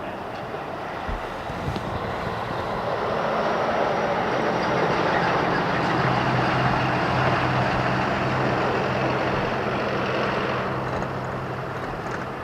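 Jet airliner passing low overhead as it climbs out after takeoff. The engine rumble swells to a peak about halfway through and then fades.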